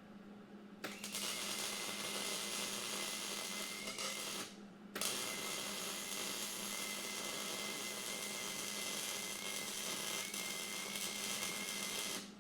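A hand-held power tool running at a steady speed with a high whine, in two runs with a brief stop about four and a half seconds in.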